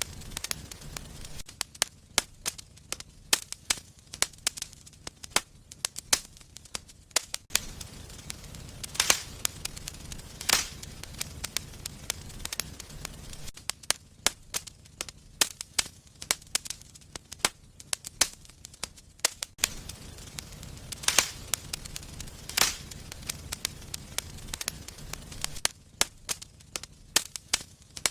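Wood fire in a fireplace crackling with many irregular sharp pops, a handful of them much louder, over a low steady rumble of the flames.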